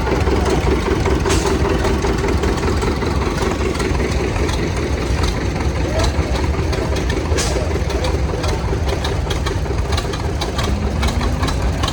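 Antique farm tractor engines running steadily with a low rumble, with an engine note rising near the end.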